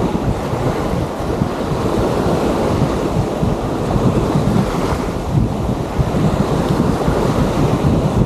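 Wind blowing across the microphone in uneven gusts, over the steady wash of surf on the shore.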